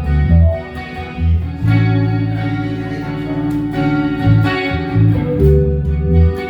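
Guitar music, plucked notes over a low bass line, with a long held low note in the middle.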